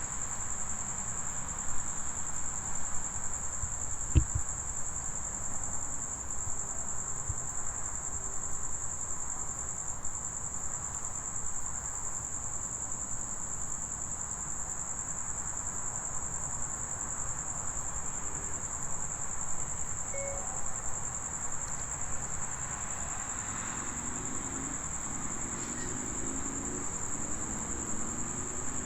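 Crickets trilling in a steady, unbroken high-pitched chorus, with a single sharp knock about four seconds in.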